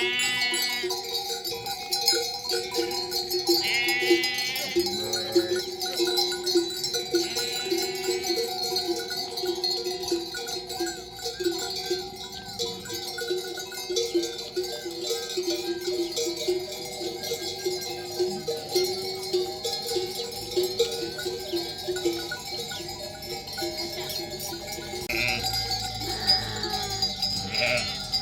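Bells on a grazing flock of sheep clanking continuously, with sheep and lambs bleating a few times: near the start, about four seconds in, and again near the end.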